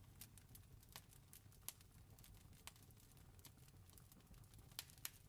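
Campfire crackling: irregular sharp pops and snaps, a few louder than the rest, over a low rumble of burning.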